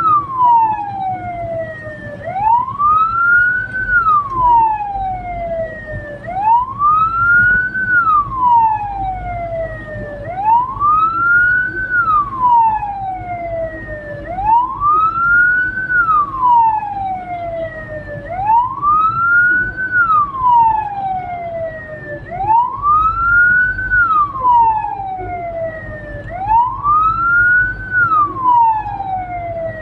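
Hearse's electronic siren wailing in a slow, even cycle, rising and falling in pitch about every four seconds, over a low steady vehicle hum.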